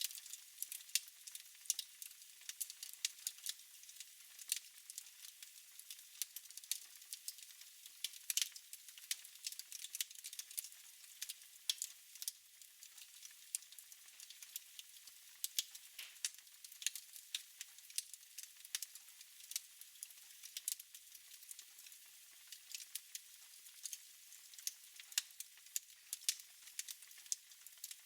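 Fire crackling in a fireplace: irregular sharp pops and snaps, several a second, over a faint hiss.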